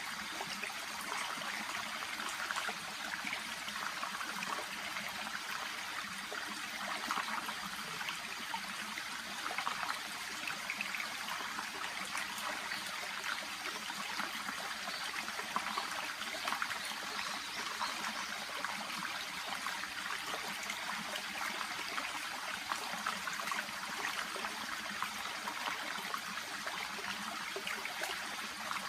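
Shallow brook babbling over stones: a steady trickling flow with many small splashes and gurgles.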